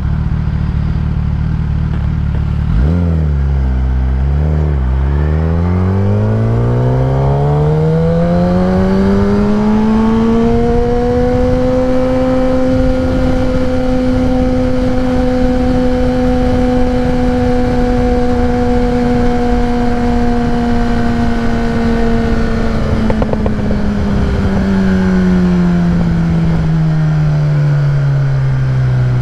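Kawasaki ZX-10R's inline-four engine through a Graves race exhaust: a couple of quick blips about three seconds in, then the pitch climbs steadily as the bike pulls away, holds steady at cruise for about ten seconds, and falls away in the last several seconds as it slows. Low wind rumble runs underneath.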